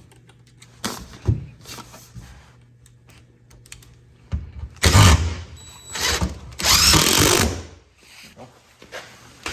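Cordless drill-driver driving screws into a wooden panel, in two runs of about a second each, with light handling clicks before them.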